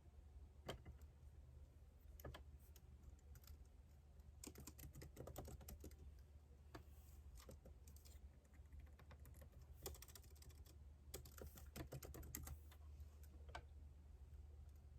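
Typing on a computer keyboard: a few quick runs of keystrokes with single key clicks between, over a faint steady low hum.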